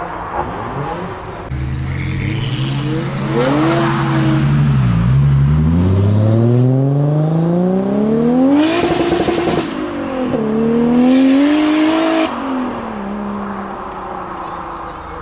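A high-performance car engine accelerating hard as the car pulls away, its pitch climbing steeply through the revs. It upshifts and climbs again, then lifts off and fades as the car drives off.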